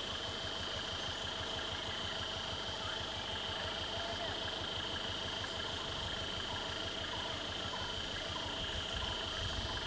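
Car engine idling steadily, a low even rumble, with a steady high-pitched whine over it and a few faint chirps.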